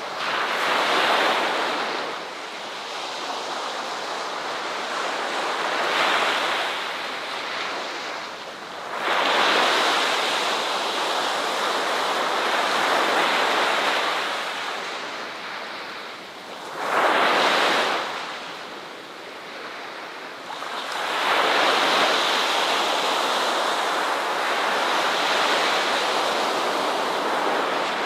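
Ocean surf breaking and washing on a shore, rising and falling in swells every few seconds, with one short, sharp surge about seventeen seconds in.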